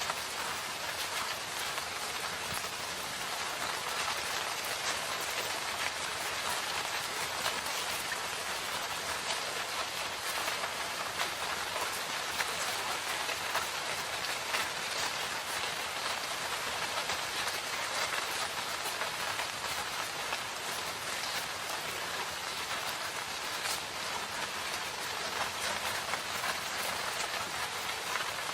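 Steady rain falling in a forest, a dense even hiss with many individual drops pattering on surfaces.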